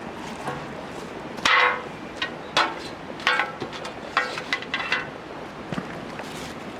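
A series of about six hard strikes at uneven intervals, each with a short ring; the first is the loudest.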